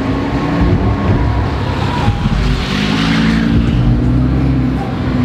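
Sports car engines running at low speed as they pull through between bollards, with one engine growing loudest and pulling harder from about halfway in.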